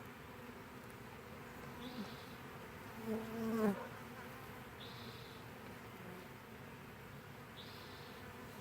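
Honeybee swarm buzzing steadily around the hive entrance as the bees move in. About three seconds in, one louder buzz falls in pitch and fades.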